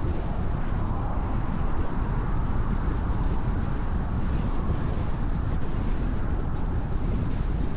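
Car cruising on a rain-wet expressway: steady road and tyre noise, a low rumble with a hiss from the wet surface.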